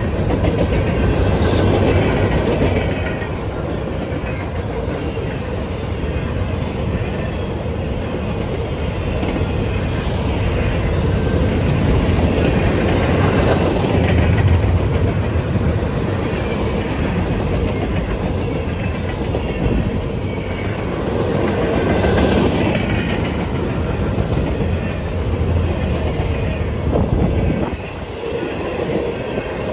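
Freight train rolling past at close range: the steady noise of its cars' steel wheels running on the rails.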